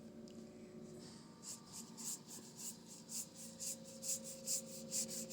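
Paintbrush scrubbing acrylic paint across a canvas in quick back-and-forth strokes, about three a second, starting about a second and a half in.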